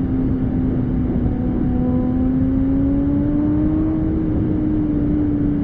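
Porsche 718 Spyder's 4.0-litre flat-six sounding through a Kline valved exhaust with OPF delete pipes, the car under way at a steady engine note that climbs slowly in pitch and eases slightly near the end, over road and wind noise.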